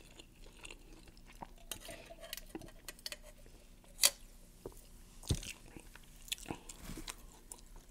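Chewing and small eating sounds: scattered clicks and taps of food and tableware, with one sharp click about four seconds in and a soft thump shortly after.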